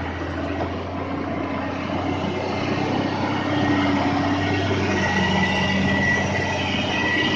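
Truck engine running steadily with a low hum, growing somewhat louder about halfway through.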